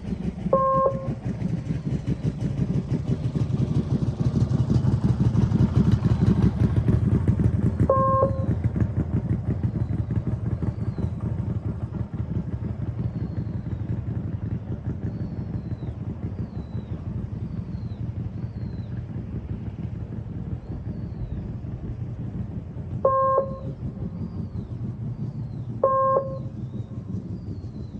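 Motorcycle engine running continuously at low speed, swelling briefly a few seconds in and then settling. Four short electronic beeps sound, one about a second in, one about eight seconds in and two near the end. Faint small chirps, like birds, repeat through the second half.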